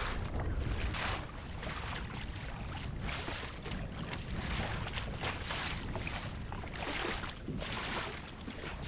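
Water sloshing and lapping against a kayak, with wind buffeting the microphone; the noise swells and eases irregularly.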